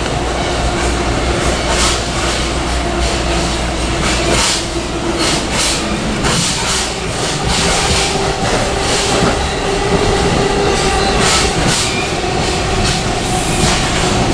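A train running on rails: a steady rumble and hum with repeated clicks and knocks from the wheels.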